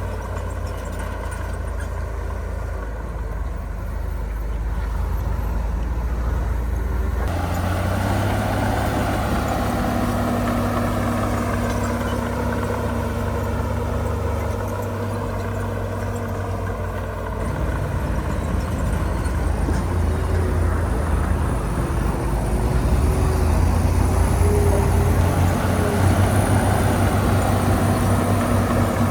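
Heavy diesel engines of earthmoving machines running and working. The sound gets fuller about seven seconds in and louder again from about 17 seconds in, as the machines work harder.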